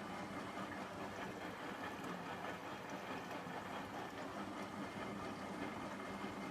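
Hotpoint washing machine running steadily mid-cycle on a cotton wash, an even mechanical hum with water moving in the drum.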